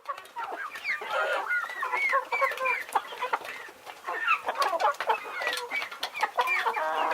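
A flock of chickens clucking, with many short calls overlapping throughout, along with scattered clicks.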